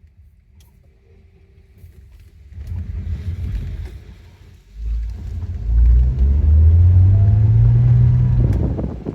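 Porsche 986 Boxster's flat-six engine accelerating on track. It picks up after a quiet start, dips briefly at a gear change about halfway through, then pulls hard with a steadily rising pitch before dropping off as the throttle lifts near the end.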